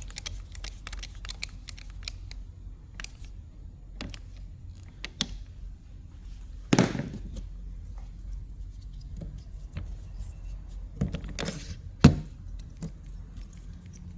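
Small metal parts and tools clinking and tapping during hands-on alternator work, with a louder ringing knock about seven seconds in and another near twelve seconds, over a steady low hum.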